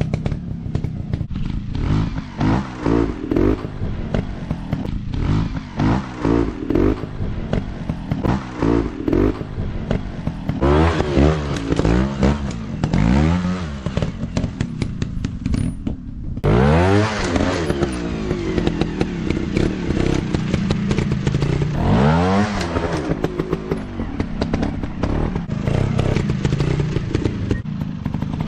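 Dirt bike engines revving up and easing off again and again, the pitch rising and falling in short blips. The sound drops out for a moment past halfway.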